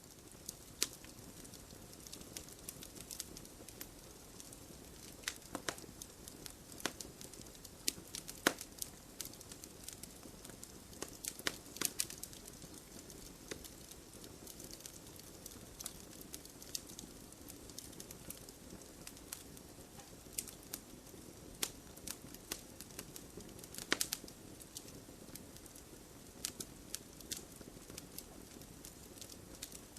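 Wood campfire burning: a steady low hiss with frequent sharp crackles and pops at irregular intervals, and a few louder snaps.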